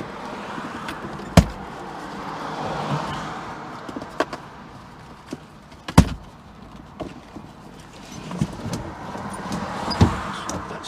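Cars passing in the street, swelling and fading twice, with three sharp clunks: about a second and a half in, midway, and near the end, plus a few lighter clicks.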